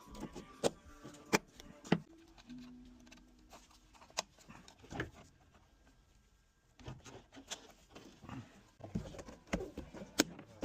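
Scattered sharp clicks and knocks at irregular intervals, with a brief low hum about two and a half seconds in.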